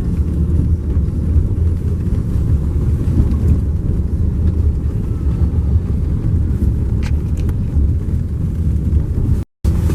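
Steady low rumble of a motor vehicle driving, engine and road noise together. The sound cuts out completely for a moment near the end.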